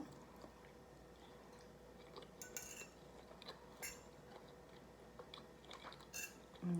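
Quiet eating sounds: scattered light clicks and taps of utensils and food against dishes or packaging, with soft chewing.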